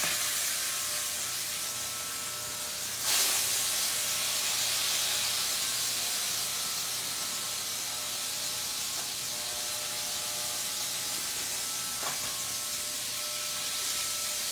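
Electric hair clippers running with a steady low buzz and a hiss of the blades shearing through hair; the hiss gets louder suddenly about three seconds in.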